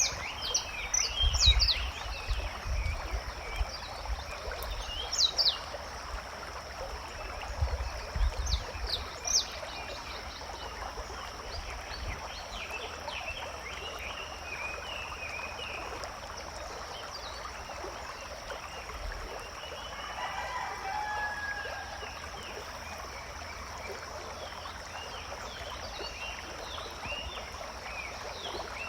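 Forest ambience: small birds chirping over a steady background hiss, with low rumbles in the first ten seconds or so.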